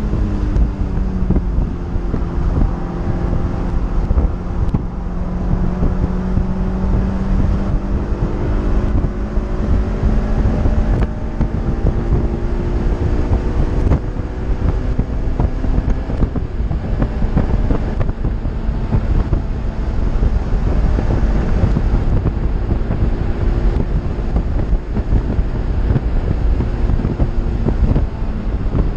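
Honda S2000's four-cylinder VTEC engine pulling at speed on track, heard from the open cockpit. Its note drops about a second in, then climbs slowly. Heavy wind buffets the microphone with the roof down.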